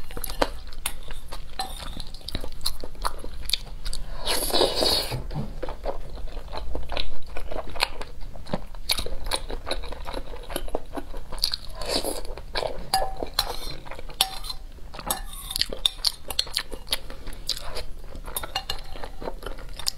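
Close-miked chewing and crunching of a mouthful of rice, heard as a dense run of small wet clicks, with a metal spoon clinking and scraping against a glass bowl.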